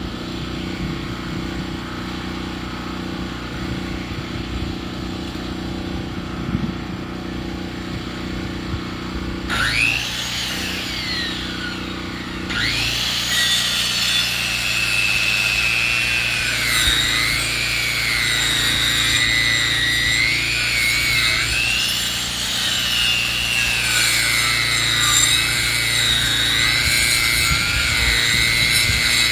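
Portable sawmill: the engine runs steadily at first, then a little under halfway in the saw spins up with a rising whine. It then cuts through a log with a loud, sustained whine whose pitch sags and recovers as the load changes.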